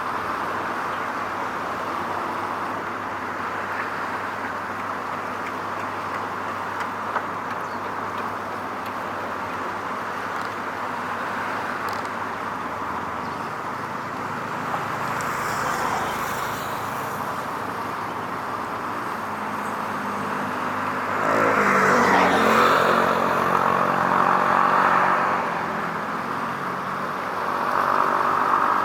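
Steady hum of road traffic. About 21 seconds in, a louder vehicle passes by, its engine pitch falling as it goes past. Another vehicle comes up loud near the end.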